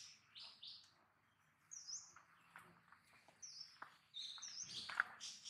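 Faint high chirps and short whistled notes of small birds, some sliding in pitch, with a few sharp clicks, the loudest about five seconds in.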